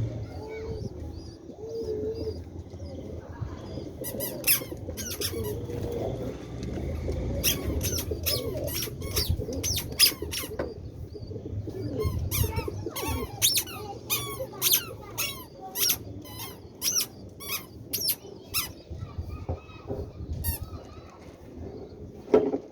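Pigeons cooing low, then from about four seconds in a rapid run of short, sharp, high squeaks, several a second.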